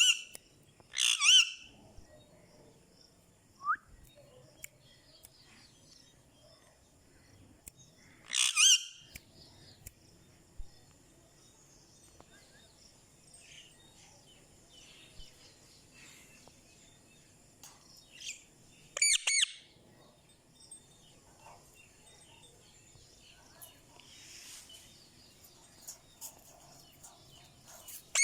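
Indian ringneck parakeet calling: about four short, loud, shrill calls several seconds apart, with soft chirps in between.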